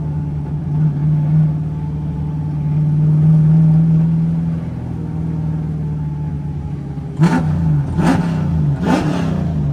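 Drift car's LS3 6.2-litre V8 idling with a steady rumble, then blipped three times near the end, about a second apart, each rev rising and dropping quickly.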